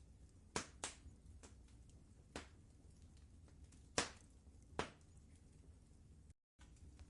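Wood fire crackling in a fireplace: sharp pops and snaps over a low steady rumble, with the loudest pop about four seconds in. The sound cuts out completely for a moment near the end.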